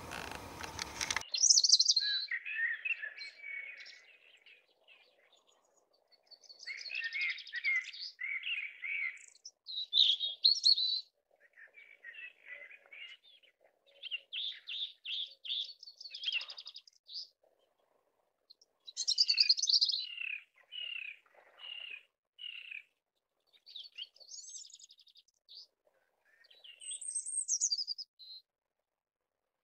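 A songbird singing in a run of short, varied phrases of high chirps and trills, with short pauses between them. A faint outdoor hiss cuts off abruptly about a second in, just before the singing begins.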